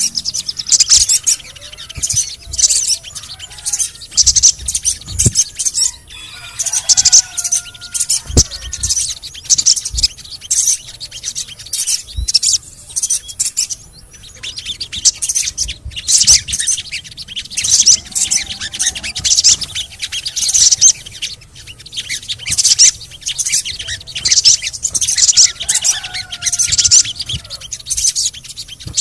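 Crimson sunbird (sogon) singing: a fast, unbroken stream of high, thin chirps and twitters, with a few lower whistled phrases mixed in.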